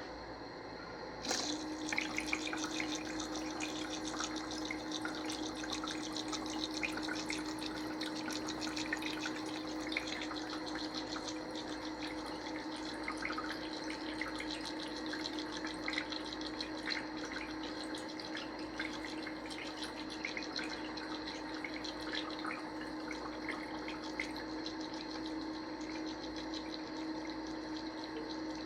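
LZ599 anti-gravity humidifier running: a continuous patter of water droplets dripping down its stream into the basin, over a steady low hum from the unit that starts with a click about a second in.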